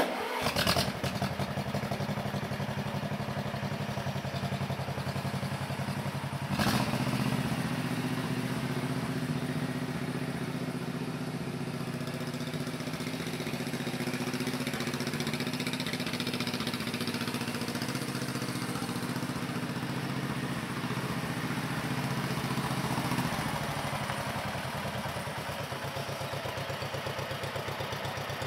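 Air-cooled two-cylinder Wisconsin TJD engine in a Gibson Super D2 tractor, starting at once on its electric starter and running. With a knock about a quarter of the way in its speed rises a little and holds, then drops back to a steady idle near the end.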